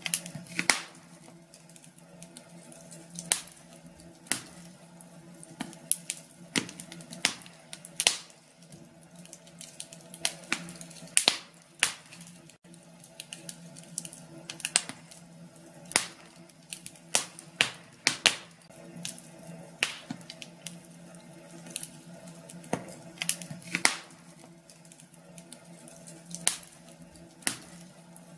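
Wood fire crackling in a fireplace: irregular sharp pops and snaps, some loud and some faint, over a soft steady hiss.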